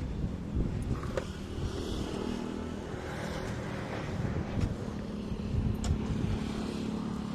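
A motor vehicle's engine running, a steady low rumble with a faint hum, with a few sharp clicks or knocks over it.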